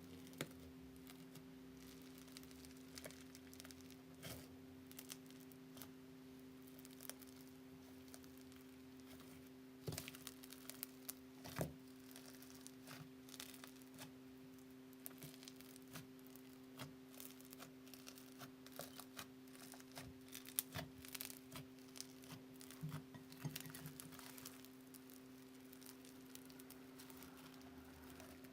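Slime being handled and pressed: a scatter of soft crackles, small pops and clicks, a few sharper ones, over a steady low hum.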